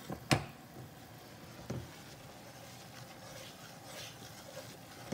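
A sharp knock about a third of a second in, with softer knocks later, over a faint steady sizzle of gram flour (besan) roasting in ghee as it is stirred with a wooden spatula.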